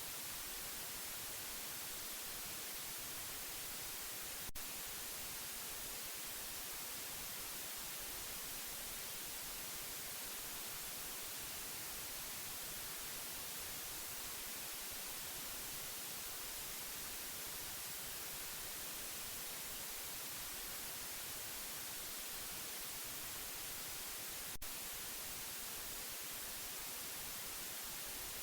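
Steady white-noise hiss, even and unchanging and strongest in the treble. It is broken only by two faint clicks, one about four and a half seconds in and another about twenty seconds later.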